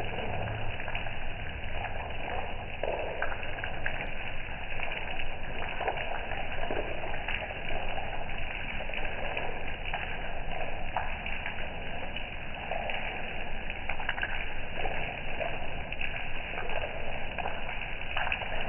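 Steady rain falling, many small drop hits over a constant hiss.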